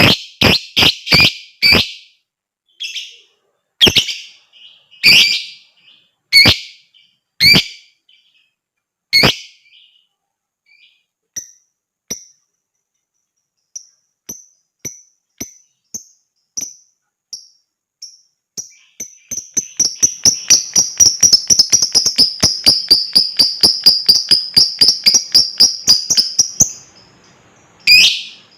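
A lovebird calling. It starts with loud, sharp chirps, then gives spaced high peeps. About two-thirds through it breaks into a long, fast chattering trill, the 'ngekek' prized by lovebird keepers, which stops suddenly. Sharp chirps return near the end.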